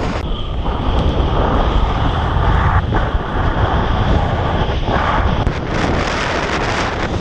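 Strong storm wind buffeting the microphone in heavy gusts, with a steady high whistle running through it from just after the start.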